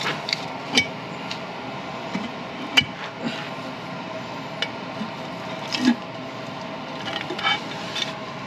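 Scattered clinks and knocks of hand tools and parts while a Jeep Grand Cherokee's front differential is opened, the louder knocks coming at about one, three and six seconds, over a steady hum.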